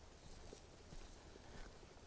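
Near silence, with a few faint soft knocks.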